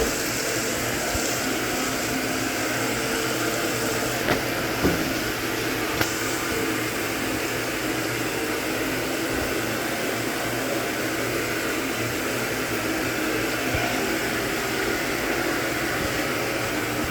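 Hoover Automatic 820 washing machine filling its tub, a steady rush of water with a low hum, and a few faint clicks between about four and six seconds in.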